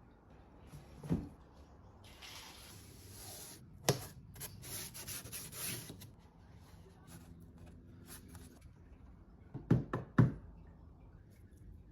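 Hand work on wood: a few sharp knocks, two of them in quick succession near the end, between stretches of rubbing or sanding.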